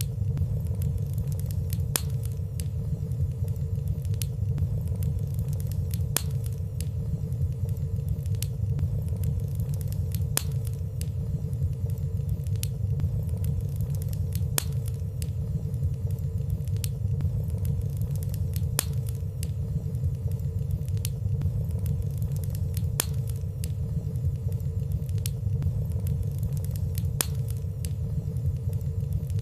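Fireplace fire burning softly: a steady low rumble of flames with light, sparse crackling ticks every couple of seconds and no loud pops.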